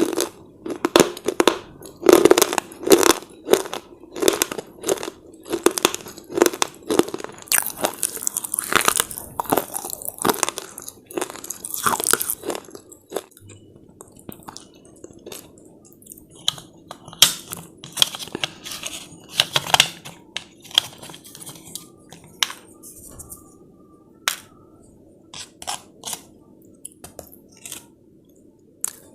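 Crunchy slate chips being bitten and chewed: a long run of sharp crunches, quick and close together for about the first half, then sparser and fainter.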